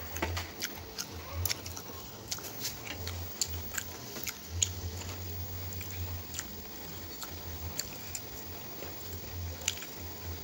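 Close chewing and biting of fried chicken and rice eaten by hand, with many small irregular mouth clicks and smacks.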